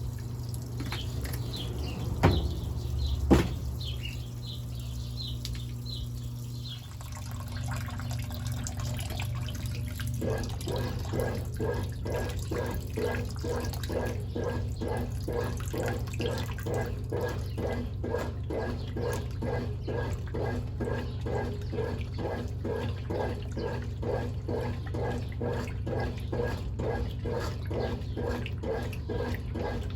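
Brastemp Ative 11 kg top-load washing machine running with water in the tub: a steady motor hum with two sharp clicks early on, then from about ten seconds in a regular churning of roughly two strokes a second as the agitator sloshes the load.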